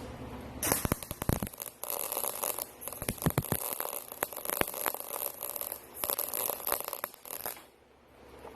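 Arc welding with a Craftsman welder, filling holes in a steel exhaust pipe: the arc crackles and spits in several short bursts with brief pauses between, then stops shortly before the end.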